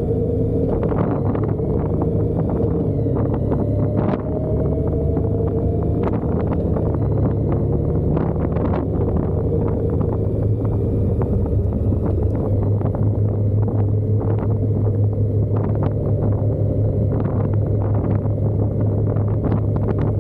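Motorcycle running steadily at road speed, with wind rushing and buffeting the microphone in frequent crackles.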